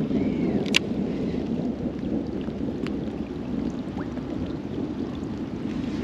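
Steady low rumble of wind on the microphone out on open water, with a sharp click about a second in.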